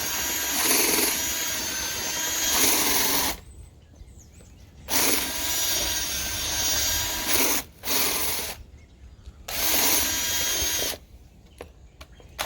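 Cordless drill spinning a rotary dryer-vent cleaning brush on its rod inside the vent duct, run as several bursts of a few seconds with short stops between.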